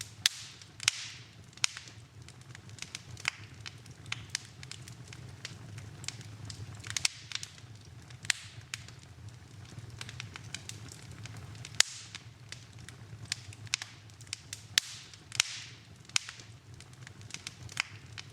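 Wood fire burning in a fireplace, crackling with frequent sharp pops at irregular intervals, a few louder snaps among them, over a low steady hum.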